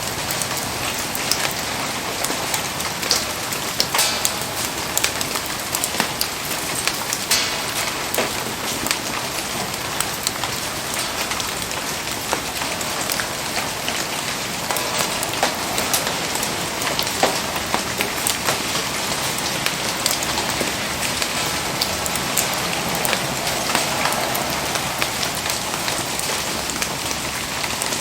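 Steady rain falling, with many scattered sharp ticks and pops over a dense hiss.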